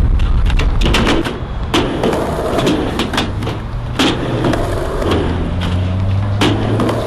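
Skateboards rolling on concrete with a string of sharp clacks and knocks as boards and wheels hit the ground, over a low rumble. A steady low hum comes in about five seconds in.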